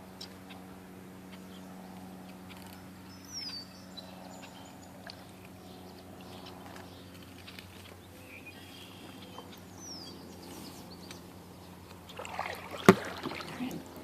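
Kayak paddling sounds near the end: water sloshing and one sharp, loud knock against the kayak. Before that, only a steady low hum with two short falling bird chirps.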